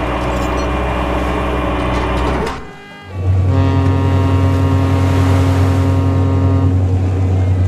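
A steady motor-vehicle engine hum that drops away briefly about two and a half seconds in, then comes back as a deeper, louder steady hum.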